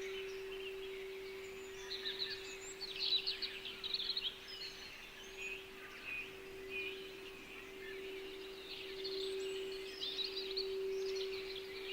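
Small songbirds chirping and trilling in scattered bursts over a steady, single sustained tone, the added throat-chakra frequency, which swells slightly near the end.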